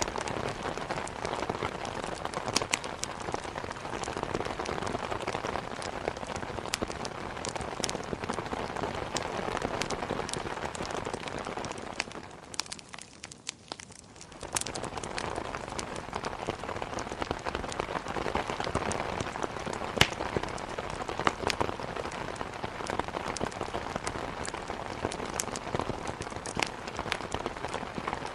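Steady heavy rain against a window, mixed with the sharp pops and crackles of a wood fire. The sound drops away for about two seconds around the middle, then comes back.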